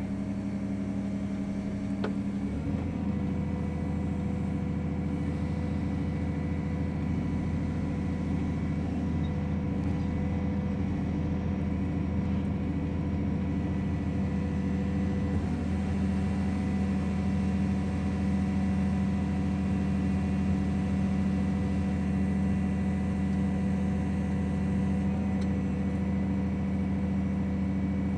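Heavy construction machine's engine running steadily, a deep even hum that shifts slightly about two and a half seconds in and then holds.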